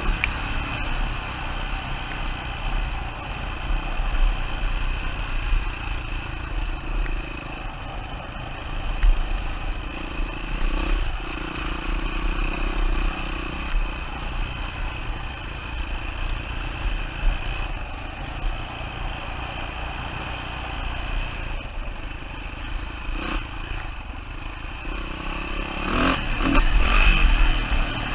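2007 Yamaha WR450F dirt bike's single-cylinder four-stroke engine running as it is ridden along a rough trail, the throttle rising and falling, with a louder burst of revving near the end.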